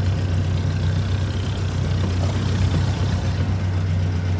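1962 Jeep M170's four-cylinder F-head engine running steadily with a low drone while the Jeep is driven, heard from inside the cab.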